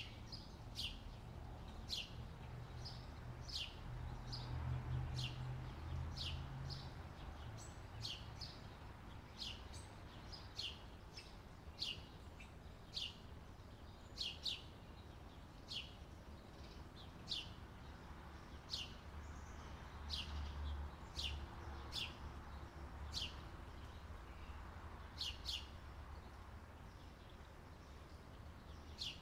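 Birds chirping: short high chirps that drop quickly in pitch, repeating about once a second, over a faint low rumble.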